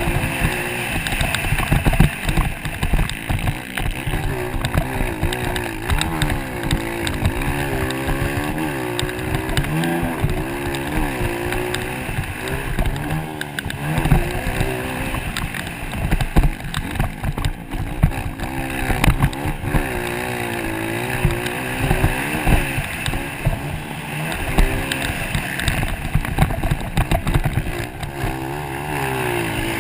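Motocross dirt bikes racing, their engines revving, with the pitch climbing and dropping again and again as riders accelerate and shift.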